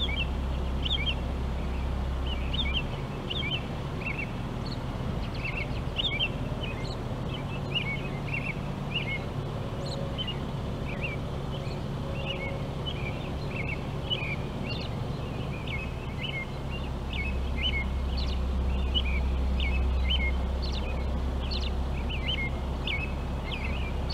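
Songbirds chirping and singing in a steady stream of short, high chirps, several a second, over a low background rumble.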